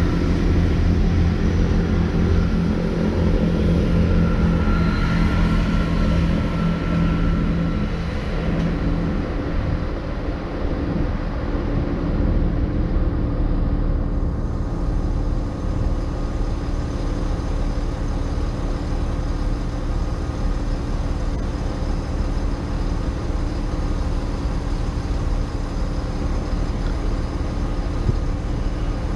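Diesel train engines running, loud with a strong low hum for the first eight or nine seconds, then settling to a steadier, slightly quieter hum.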